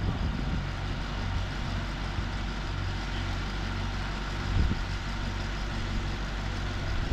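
Farmall tractor engine running steadily, with a brief knock partway through. It is loud, which the owner puts down to something wrong in the clutch, throw-out bearing and transmission area.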